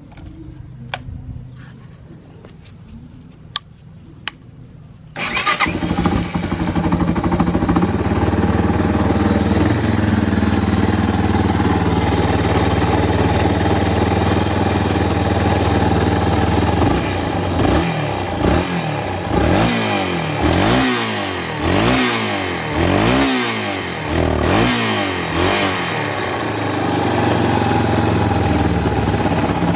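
A few sharp clicks, then a Yamaha Serow 225's air-cooled single-cylinder four-stroke engine (a 4JG unit swapped in) starts about five seconds in and idles. In the second half it is blipped through a series of quick revs up and down, then settles back to idle. It revs up cleanly with no abnormal noise.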